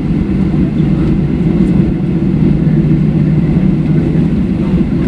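Steady low rumble inside the cabin of a Boeing 737-700 taxiing, its two CFM56-7B engines at taxi power under the rolling noise of the airframe.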